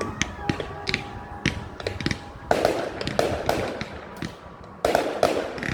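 Fireworks going off: a run of sharp bangs, with two loud bursts of crackling, one about halfway through and one near the end.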